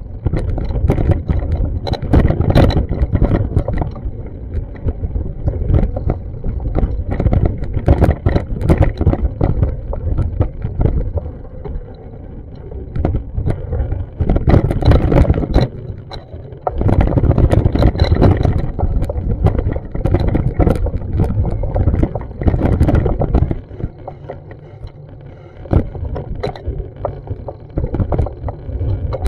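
Wind buffeting a small action camera's microphone: a loud, uneven low rumble with many crackles, easing off for a few seconds now and then.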